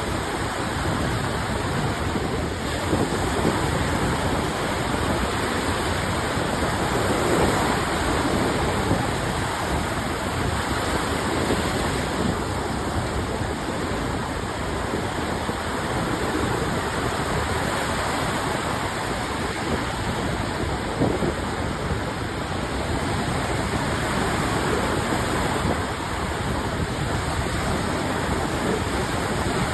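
Lake Michigan waves washing onto the shore: a steady rushing of surf that swells and eases a little.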